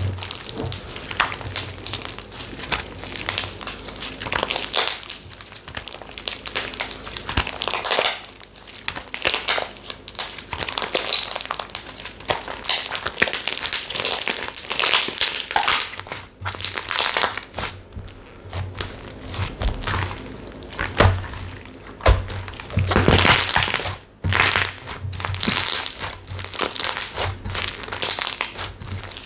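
Slime being pressed, squished and kneaded by hand, giving a continuous, irregular run of crackly, crinkling pops and squishes.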